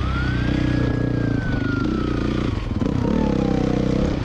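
Motorcycle engine running steadily under a police siren wail. The wail rises quickly, then falls slowly over about four seconds.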